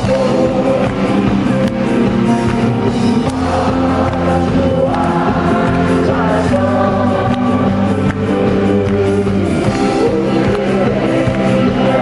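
Live concert music: a band playing a song with singing over it, steady and continuous.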